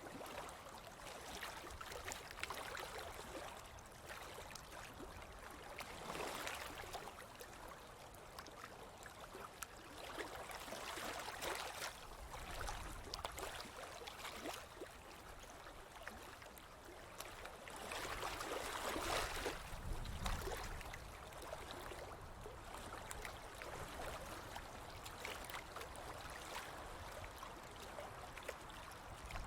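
Ocean waves washing onto the shore: a steady hiss of surf that swells into louder breaking waves every several seconds, the biggest about two-thirds of the way through, over a low rumble in the second half.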